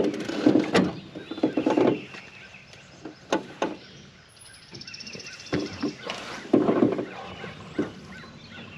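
Birds honking, likely waterfowl, with a few sharp clicks in the middle.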